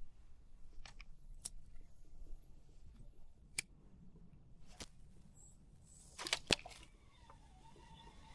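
A few sharp, scattered clicks and ticks of handling gear, with a louder short clatter about six seconds in. A faint wavering whistle-like tone begins near the end.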